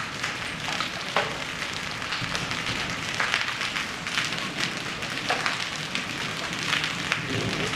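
Hail and rain falling hard: a dense steady patter with many sharp ticks of stones striking.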